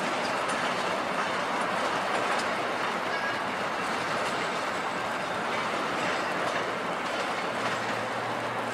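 Amfleet passenger cars rolling away over the station tracks: a steady noise of steel wheels running on the rails.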